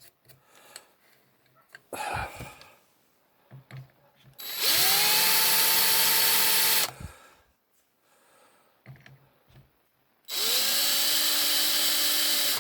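Electric hand drill with a high-speed steel bit drilling out the soft alloy rivet posts of a diecast Matchbox car. It runs twice for about two seconds each, once about five seconds in and once near the end, and each run opens with a quick rising whine that levels off. Faint knocks and handling sounds come between the runs.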